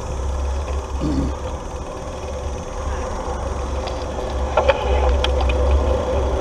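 Wind rumbling on the microphone while riding a bicycle on the road, with a steady hum from the tyres or motor and a few light clicks and rattles about two-thirds of the way in.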